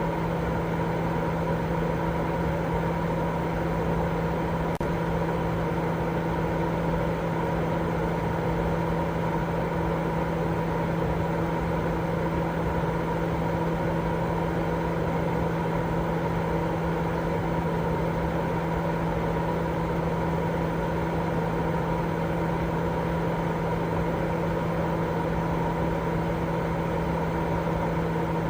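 Baby-sleep white noise: a steady, unchanging rushing noise with a low hum and a fainter higher tone running through it, like a running fan or appliance.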